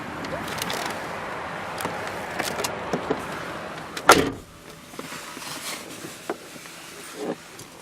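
Light clicks and handling noises, then a door of the Mercedes-Benz ML 320 shut with a loud thud about four seconds in; the steady background noise falls away once it closes.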